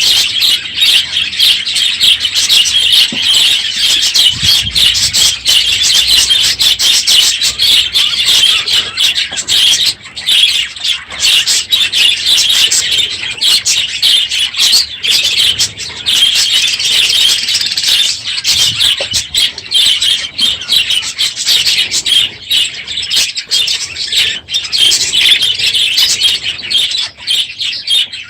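A large flock of budgerigars in an aviary chattering and chirping loudly and without a break, many birds calling at once, with the odd squawk and wing flutter.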